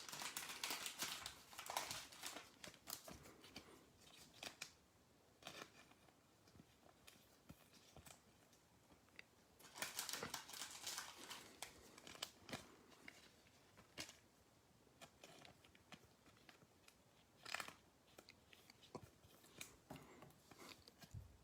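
Faint crinkling and rustling of trading-card pack wrappers and cards being handled, in a few short spells: at the start, about ten seconds in, and again briefly later, with small ticks of cards between.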